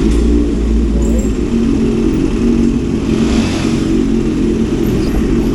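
Motorcycle engine running under way, a loud, steady low note.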